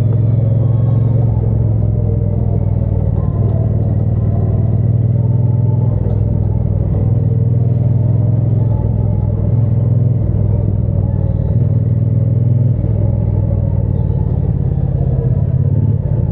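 Triumph Bonneville T120's 1200 cc parallel-twin engine and exhaust running steadily while the motorcycle cruises, a low engine note with only small changes in engine speed.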